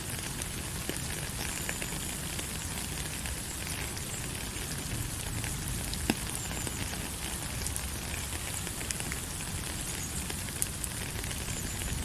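Steady hissing noise with scattered small crackles and ticks, and one sharper crack about six seconds in.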